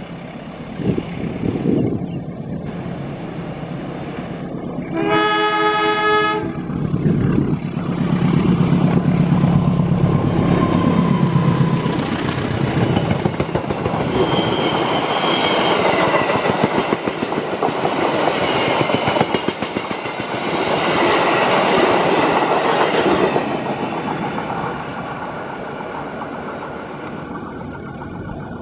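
Diesel locomotive sounding its horn once, for about a second and a half, then a passenger train passing close by: the engine's low running note followed by the coaches rolling past with a rhythmic clickety-clack of wheels over rail joints, fading away near the end.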